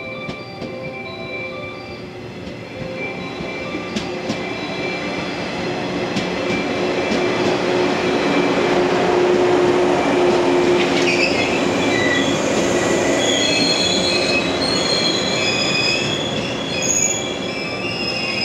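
Yellow electric multiple-unit train (Okayama depot set B14) pulling in along the platform: a rolling rumble with a few sharp clacks from the wheels, growing louder as the cars come alongside. From about 11 s in, several high-pitched squealing tones from the wheels and brakes join it as the train slows to stop.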